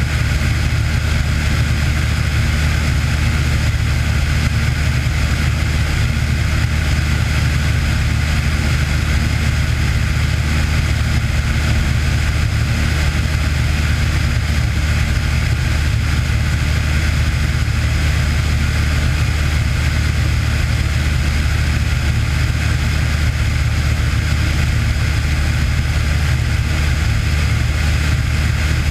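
Cessna 182 single piston engine and propeller droning steadily, with a strong low hum and even loudness throughout.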